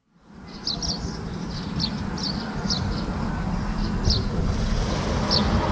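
Outdoor field ambience fading in: a small bird repeating short, high chirps about once or twice a second over a steady low rumble.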